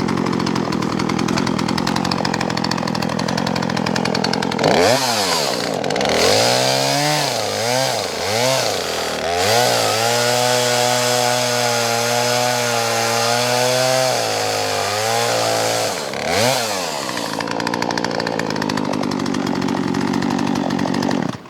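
Poulan Pro PR4218 42cc two-stroke chainsaw running. It is revved up and down several times, held at high revs for about four seconds, then drops back to idle.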